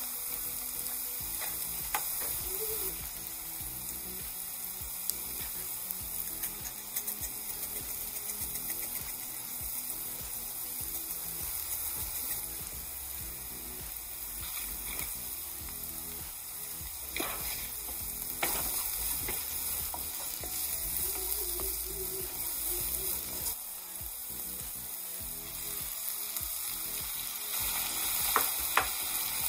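Diced onions and garlic sizzling steadily in olive oil in a skillet. Near the end a wooden spoon stirs in diced tomatoes, with a few clicks against the pan.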